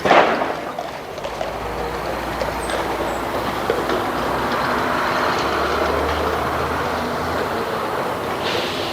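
A motor vehicle passing along the street, its rumble swelling to a peak about six seconds in and then fading.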